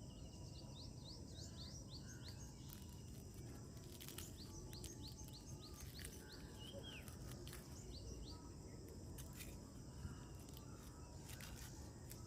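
Faint outdoor ambience: small birds chirping in quick runs of short rising chirps, over a steady low background noise, with a few faint knocks here and there.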